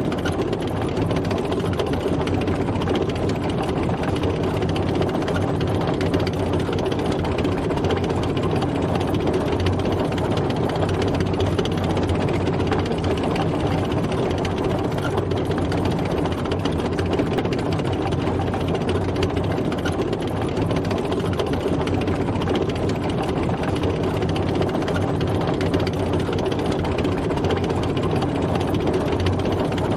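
Tank driving, its heavy engine running steadily with a constant low hum and mechanical clatter.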